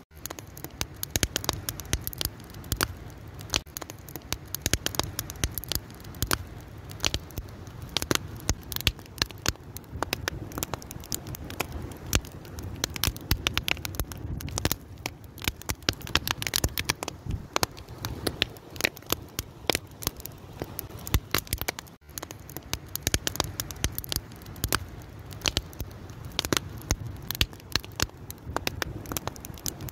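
Wood fire crackling, with dense irregular snaps and pops over a steady low rumble of the flames. The sound drops out for an instant about 22 seconds in.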